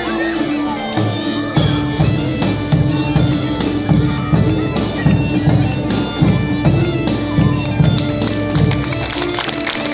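Bagpipes playing a tune over a steady drone, with drums beating a regular rhythm of about two beats a second.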